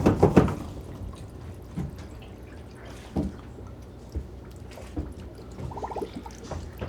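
Water dripping and trickling from an opened water supply pipe as the line drains, with a few soft knocks.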